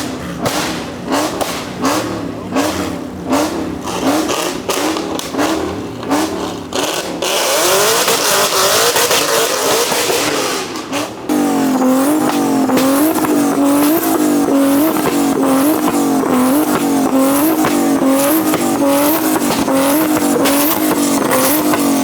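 A car engine revved hard in quick repeated pulses, with sharp crackling pops from the exhaust. About seven seconds in, a few seconds of hissing tire screech, then louder, even rhythmic revving to the end.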